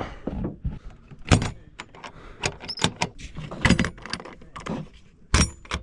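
A run of irregular clinks, clatters and knocks of camp gear being handled, some with a brief metallic ring.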